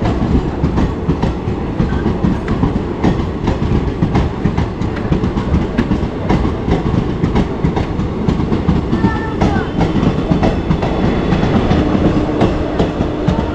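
Train rolling out of the station, its wheels clattering over the rail joints in a steady, loud run of clacks over a low rumble.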